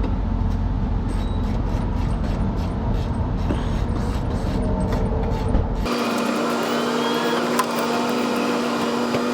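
A ratchet wrench clicking about four times a second as a loose lower rear shock bolt is tightened, over a steady low rumble. About six seconds in, the sound cuts abruptly to a steady vehicle drone with a hum.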